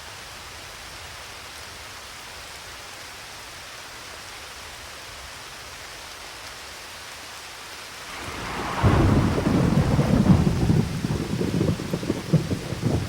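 Steady rain falling, then about eight seconds in a thunderclap breaks out with a sharp crack and rolls on in a long, loud rumble.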